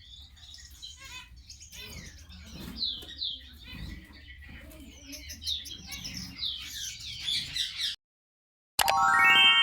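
Gouldian finches chirping, many short rapid calls, which stop abruptly about eight seconds in. Near the end a loud chime sounds, its tones building up in quick steps.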